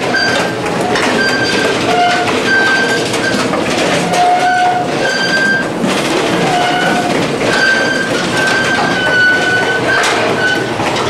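Passenger train coaches running, heard loud from the open passage between cars: a dense running rumble and rattle, with brief high metallic squeals about once a second, some of them in two pitches at once.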